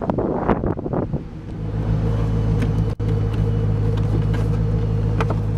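A few knocks and clatter of a car's removable T-top roof panel being handled and set in place. After about a second and a half comes a steady, low engine hum, typical of a car idling.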